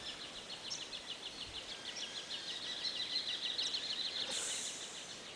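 A bird's rapid, even trill of short high chirps, about eight a second, stopping about four and a half seconds in, with a few brief higher calls over it.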